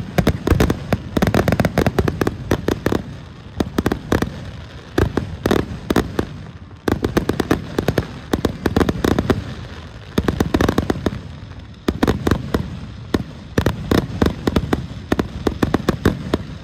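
Aerial fireworks finale barrage: rapid volleys of shell bursts and crackle, coming in dense waves with short lulls between them.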